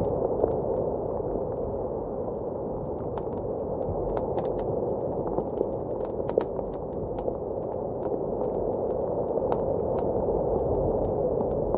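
Wood fire crackling with scattered sharp pops over a steady, muffled blizzard wind that swells and eases slowly.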